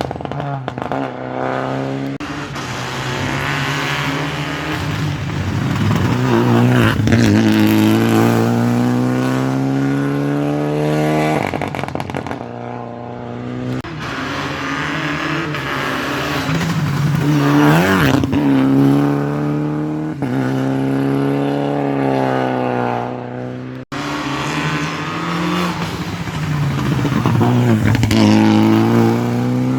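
Rally cars at full throttle on a wet special stage, engines climbing in pitch through each gear and dropping at the shifts as they pass. The sound cuts off sharply about three-quarters of the way through and another car follows.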